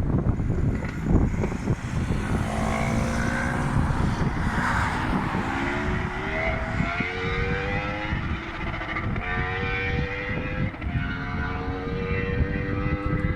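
2015 Yamaha R1's crossplane inline-four accelerating hard through the gears: the engine pitch climbs, drops back at each upshift and climbs again several times, over a heavy low rumble.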